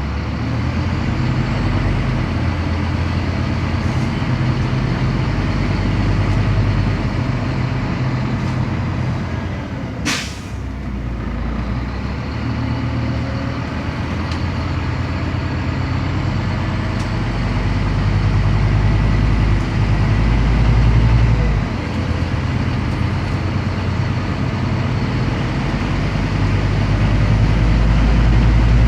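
Scania CN270UB city bus's diesel engine running under load, heard from inside the bus, with its low drone rising and dropping as it pulls through the gears. A short, sharp hiss of compressed air comes about ten seconds in.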